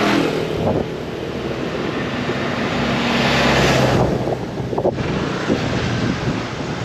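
Motorbike engine running while riding, with wind buffeting the microphone. The wind noise swells from about two and a half seconds in, then drops away abruptly near five seconds.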